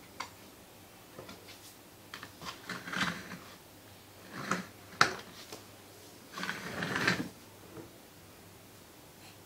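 Baby walker rattling and knocking as it rolls and bumps, in irregular clatters with a sharp knock about five seconds in.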